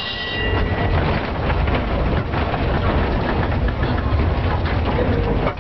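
Old tram running, with a low rumble and a steady clatter and rattle from the car on its rails. A brief high ringing tone sounds right at the start.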